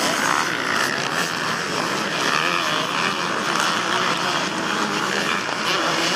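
A pack of motocross bikes racing, many engines revving up and down at once in overlapping whines.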